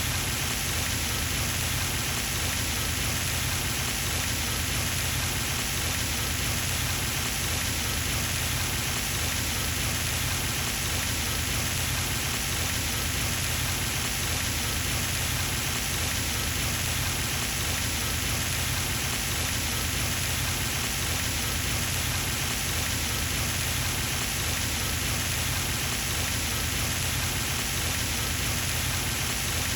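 Garden pond fountain running steadily, its spray pattering down onto the pond's surface in an even, unbroken splashing.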